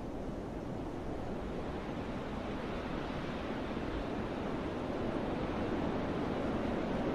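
Wind rushing through forest trees, a steady rustling noise like distant surf that swells slightly toward the end.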